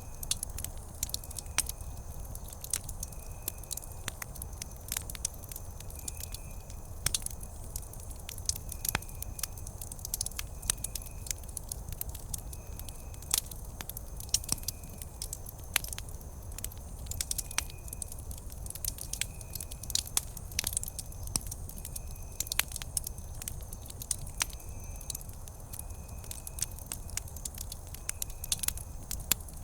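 Wood fire crackling, with sharp irregular pops and snaps over a low steady rumble. A faint short chirp repeats about once a second behind it.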